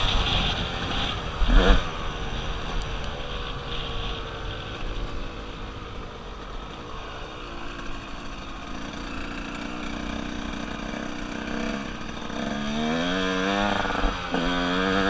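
KTM 150 two-stroke dirt bike engine running, with a loud thump about a second and a half in. It runs at low revs for a while, then revs up in repeated rising surges near the end.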